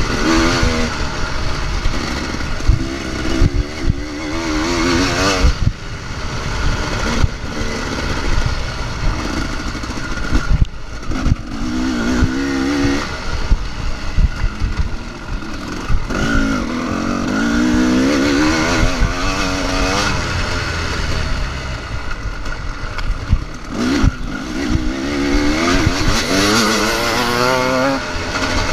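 Dirt bike engine under a rider on a motocross track, its pitch rising and dropping over and over as the throttle is opened and closed, with scattered knocks from the bike over bumps.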